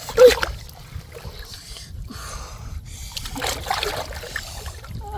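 Shallow water splashing and sloshing as the catch is worked by hand in the water during polo-trap fishing. There is a sharp loud splash right at the start and a busier stretch of splashing about three and a half seconds in.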